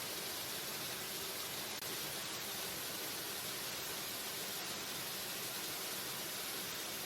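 Waterfall ambience: a steady, even rush of falling water, with a momentary dip about two seconds in.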